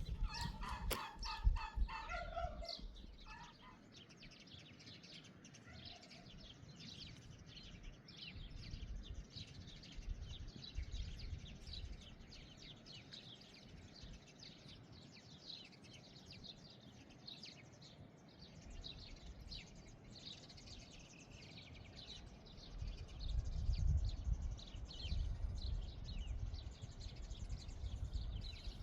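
Night-time outdoor chorus of small animals chirping rapidly and continuously in a high register, opening with a short run of pulsed calls. A low rumbling noise rises about two-thirds of the way in and lasts a few seconds.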